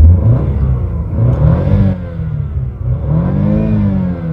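Car engine revved in Park, with several rising-and-falling blips of the throttle; the longest and highest comes about three to four seconds in, taking it to nearly 6,000 rpm.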